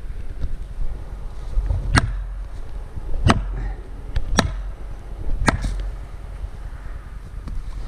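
Four sharp blows about a second apart, driving a felling wedge into a cut, each with a brief ringing edge, over a steady low rumble.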